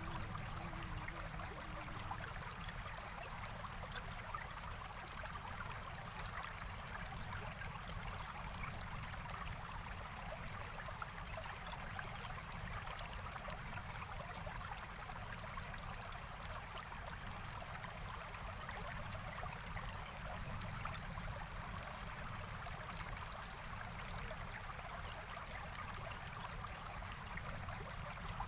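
Forest stream flowing steadily: a continuous, even rush and trickle of water.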